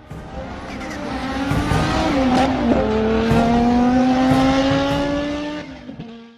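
Rally car accelerating hard past, its engine note climbing in pitch, with a sharp change in note about two and a half seconds in, growing louder and then fading away near the end.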